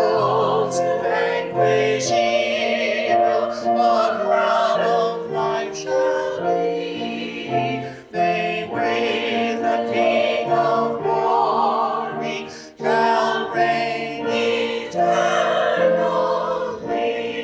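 A hymn sung with vibrato over a steady accompaniment, held notes changing about once a second.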